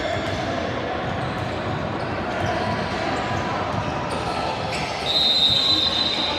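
Gym sounds during a basketball game: a basketball bouncing on the hardwood under the chatter of players and spectators, echoing in a large hall. About five seconds in, the noise gets louder and a high, steady tone starts and holds.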